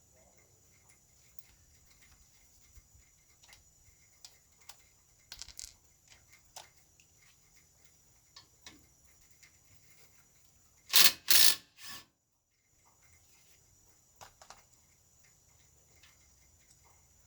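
Scattered light clicks and knocks of tools being handled, then two short, loud mechanical bursts in quick succession about eleven seconds in, with a smaller one right after.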